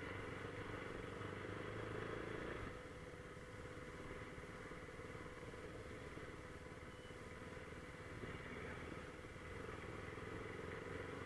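Motorcycle engine running steadily at low speed, dropping somewhat in level about three seconds in.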